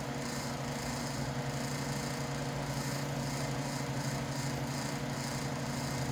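Steady hum of a noisy electric shop fan, with a constant low drone and a few steady overtones.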